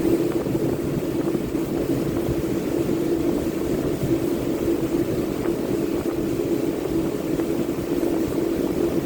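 Electric power sander running steadily, a constant motor drone held at one pitch without a break.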